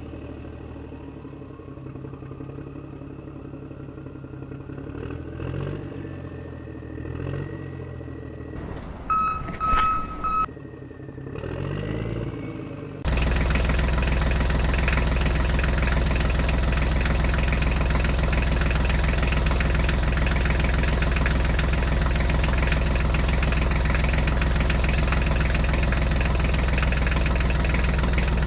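Tractor engine running: for the first dozen seconds it is quieter, rising and falling a few times, with a short steady beep about nine seconds in. About 13 seconds in, a louder, steady engine idle cuts in abruptly and holds.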